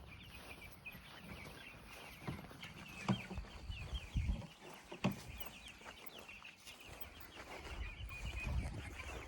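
A flock of about a hundred young, half-grown chickens peeping and cheeping steadily in many overlapping short chirps. A few sharp knocks come about two, three, four and five seconds in.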